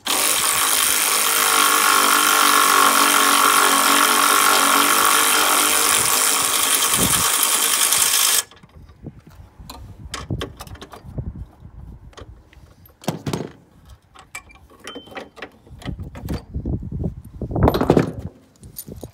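A power tool runs steadily for about eight seconds and cuts off suddenly. Scattered metallic clicks and knocks of tools and parts being handled follow.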